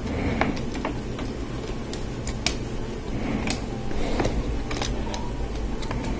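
Lego Technic plastic parts and pneumatic hoses being handled and fitted: scattered, irregular light clicks and taps over a steady low hum.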